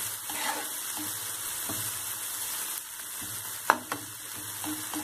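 Onions and spice masala sizzling in oil in a nonstick frying pan while a spatula stirs and scrapes through them, with one sharp tap a little past the middle. The masala is frying until the oil separates from it.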